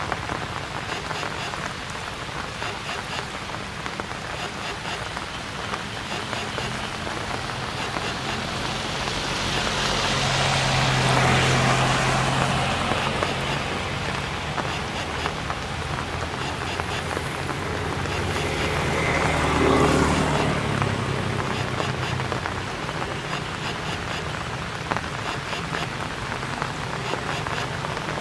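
Steady rain falling, an even hiss throughout. A passing motor vehicle swells up and fades away twice, about ten and twenty seconds in.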